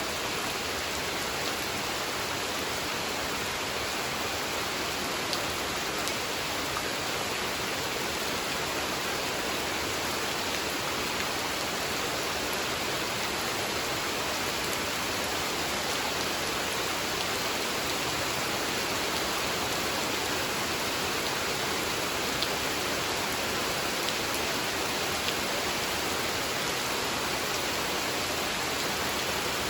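Steady rain falling: an even hiss with a few sharper drop ticks standing out.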